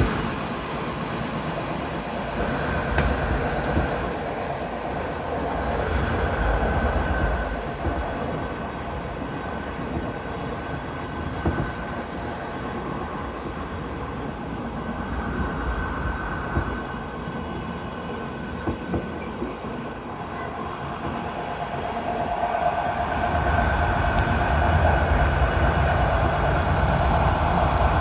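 Train running along the line: a steady rumble of wheels on rails with faint whining tones and a few clicks, getting louder over the last few seconds.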